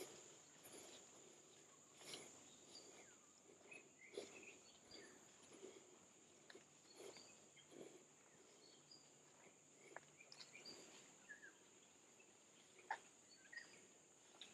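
Near silence: faint forest ambience, a steady high insect drone with scattered soft bird chirps and small clicks.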